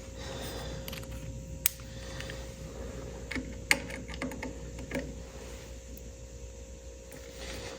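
Scattered light clicks and taps of hand tools on metal, at work on a tractor distributor's condenser screw. Two sharper clicks come about one and a half and three and a half seconds in, over a faint steady hum.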